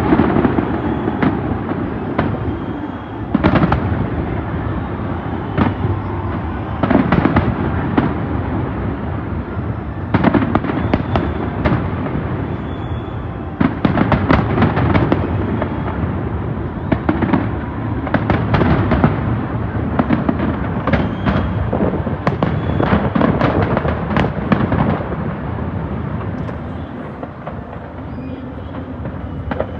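Large fireworks display heard from a distance: a dense, irregular barrage of bangs and crackles over a continuous rumble. The bangs thin out a little near the end.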